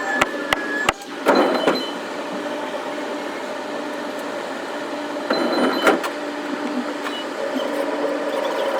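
Electric commuter train running, heard from inside: a steady motor and running hum, a few sharp clicks early on, and two louder rattling stretches about a second in and about five seconds in.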